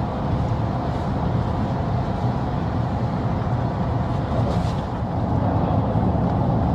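Steady engine and tyre road noise of a car cruising along a country road, heard from inside the cabin.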